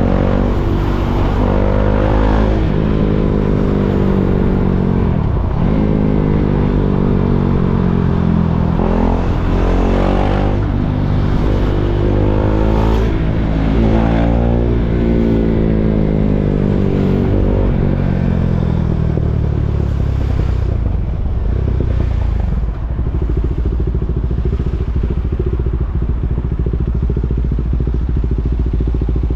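KTM Duke 390's single-cylinder engine revving up and dropping back again and again as it pulls through the gears, then settling to a steady low note about two-thirds of the way through.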